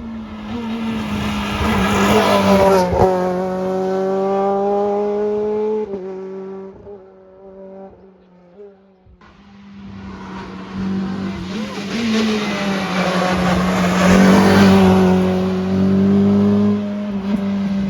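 A rally car's engine at hard throttle as it approaches and passes, its pitch shifting through gear changes and falling away as it goes. Halfway through, a second rally car cuts in suddenly and passes the same way, loudest about three-quarters of the way in.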